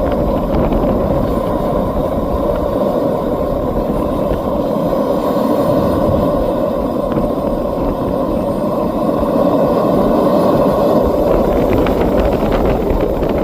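Xicoy X45 model jet turbine running with a steady, loud rushing roar and a faint high whine that climbs in pitch in the second half.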